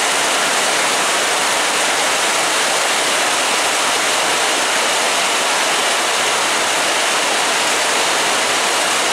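Heavy tropical downpour: a loud, steady hiss of pouring rain.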